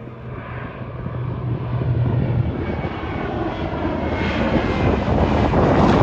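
Two Pratt & Whitney R-1830 Twin Wasp radial engines of a PBY-5A Catalina flying boat, droning as the aircraft flies toward the listener and growing steadily louder.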